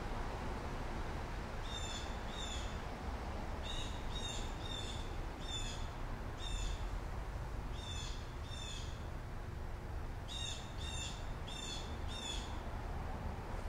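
A bird calling in the background: short, high chirps in runs of two to four, about two a second, over a low steady rumble.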